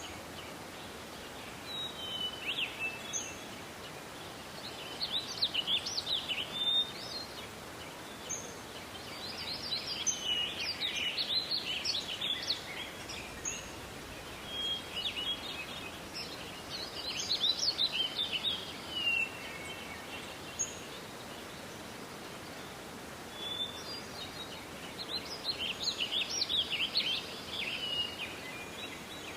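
Songbirds singing in a forest: bursts of rapid, jumbled high notes lasting a second or two, repeated several times, with single short chirps between them. Under the birds is a steady background hiss of forest noise.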